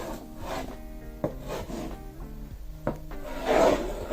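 Handwriting strokes: a pen scratching and rubbing across the writing surface as a letter is drawn, with a couple of small taps and a longer, louder scrape about three and a half seconds in, over quiet background music.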